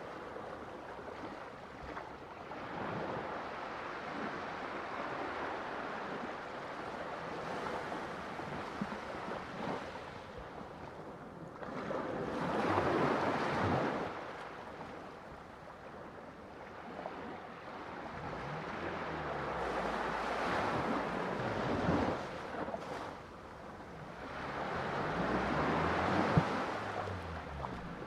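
Ocean waves breaking and washing ashore, rising and falling in a steady wash, with a louder breaker about halfway and two more near the end.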